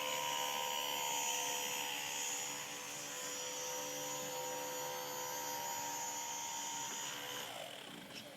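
Electric motor of a radio-controlled model boat running with a steady high whine, then winding down with falling pitch and fading near the end.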